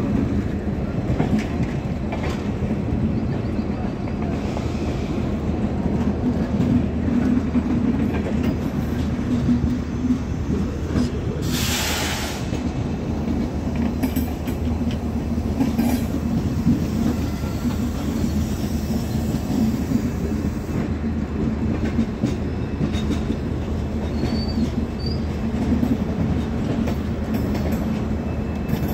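Express train passenger coaches rolling steadily past at close range, a continuous low rumble of wheels on the rails. A brief burst of hiss about twelve seconds in.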